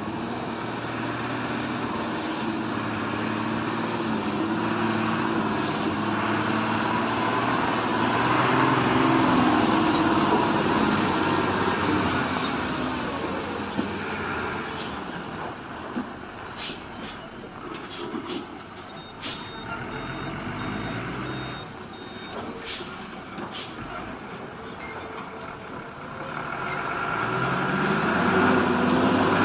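Heavy logging truck's engine running under load, its pitch rising and falling as it revs. Short high squeals and sharp hisses come in the middle, and the engine revs up again near the end.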